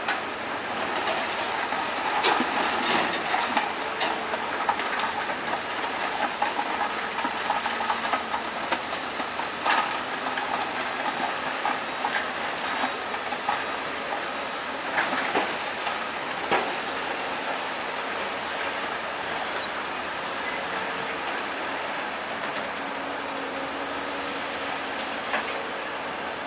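Heavy earthmoving machinery at work, a bulldozer's steel tracks and engine running as a steady clattering hiss. Sharp metallic clanks break through a few times.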